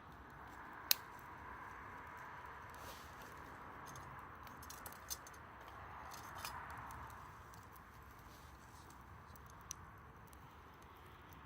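Campfire burning, with a soft steady hiss and scattered sharp crackles and pops, the loudest about a second in.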